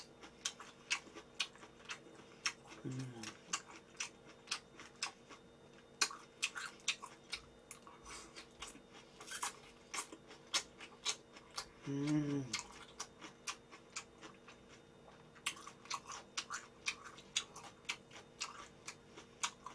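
A person chewing a mouthful of bibim naengmyeon noodles and grilled bulgogi close to the microphone: wet mouth clicks and smacks, several a second. A short hummed "mm" comes about 3 seconds in and again about 12 seconds in.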